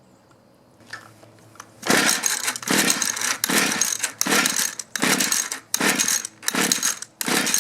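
Two-stroke engine of a Mantis mini tiller being pull-started again and again, about eight quick rasping pulls of the recoil starter cranking the engine, starting about two seconds in. The engine does not catch.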